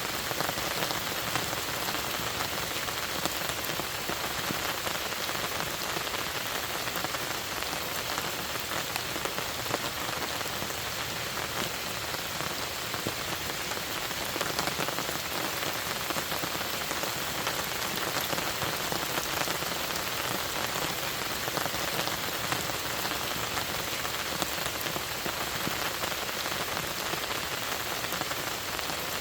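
Steady rain falling: an even hiss with many small drop ticks through it, unchanging throughout.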